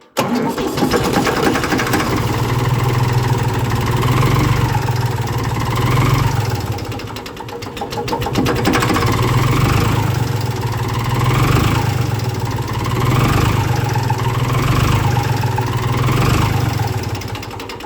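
An engine started from cold, bursting into life and then running at a steady idle, its sound swelling and easing in a regular cycle about every one and a half seconds.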